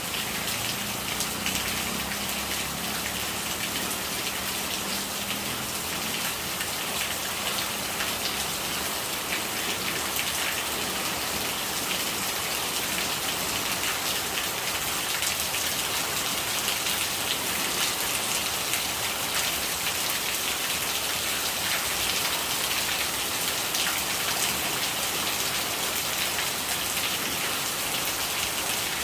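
Rain falling steadily, a dense patter of drops, with a faint low murmur of rainwater that fades out over the first several seconds.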